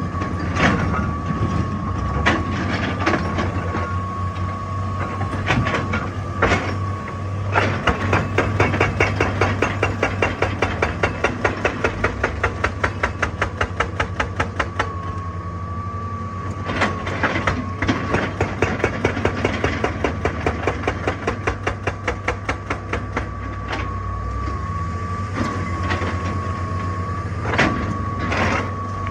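Excavator-mounted hydraulic rock breaker hammering on rock in two long runs of rapid, even blows, with single knocks in between. Under it the excavator's engine runs steadily, with a steady high whine.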